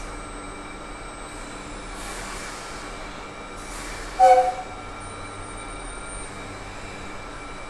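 A train running, with steady mechanical hum and whine, and one short horn blast about four seconds in.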